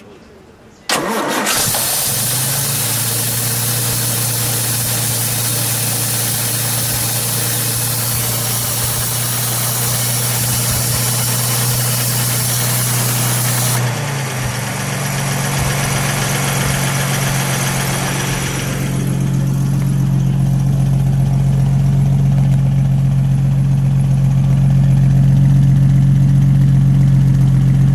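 1959 Jensen 541R's 4-litre Austin straight-six, breathing through triple SU carburettors, starts about a second in and settles into a steady, smooth idle. In the second half it is heard from the twin tailpipes, with a deeper rumble.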